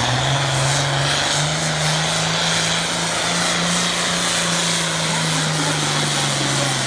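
Farm tractor engine at full throttle, pulling a weighted sled in a tractor pull. The engine note steps up at the start and again about a second and a half in, then holds steady.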